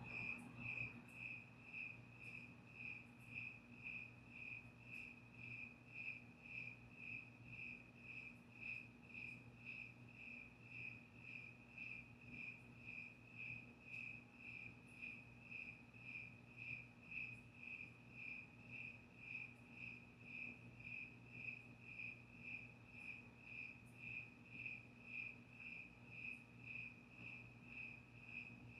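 Cricket chirping in a steady, evenly spaced rhythm, a little under two chirps a second, all at one pitch, with a faint low hum beneath.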